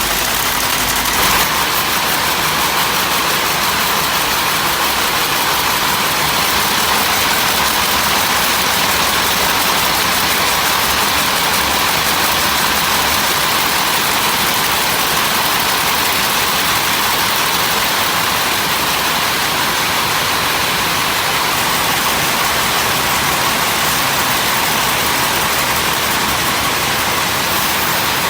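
Steady, continuous machinery noise, a dense even din with no clear rhythm; it shifts slightly about a second and a half in.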